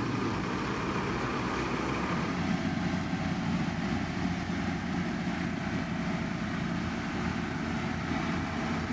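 Heavy construction machinery running steadily, a continuous low diesel engine rumble with mechanical noise over it.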